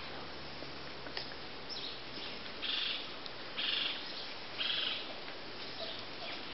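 Bird calls from the tree canopy: three short, harsh, high-pitched calls about a second apart in the middle, with a few thin chirps around them, over steady forest background noise.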